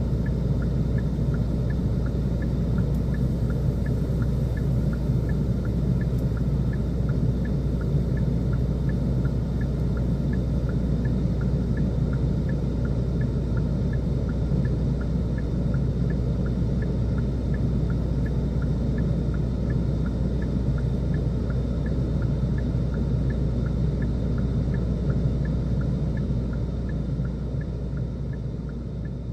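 Snowstorm wind blowing steadily, a low rumbling rush of air that fades out near the end.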